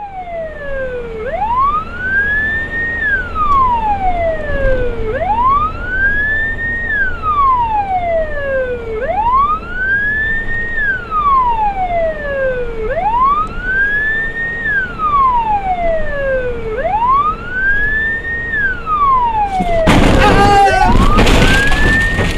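Emergency vehicle siren on a slow wail, its pitch rising and falling about once every four seconds, with a fainter second wail overlapping it. Near the end a loud rush of noise cuts across it for a couple of seconds.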